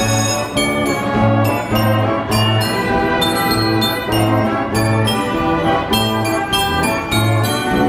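A 1918 Wurlitzer Style 157 carousel band organ playing a tune, its pipes sounding like a small brass band over a steady bass beat of about two notes a second.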